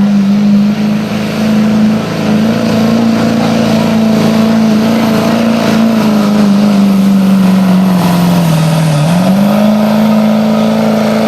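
2003 Duramax 6.6-litre V8 turbodiesel pickup running flat out under load while pulling the sled. The engine note holds steady, sags briefly about eight seconds in, then climbs back up.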